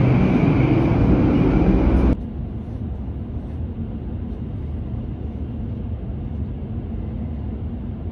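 Tohoku Shinkansen running noise in the vestibule between cars: a loud rush with a steady high whine. About two seconds in it cuts off abruptly to a quieter, steady low rumble inside the passenger cabin as the train rolls slowly through a station.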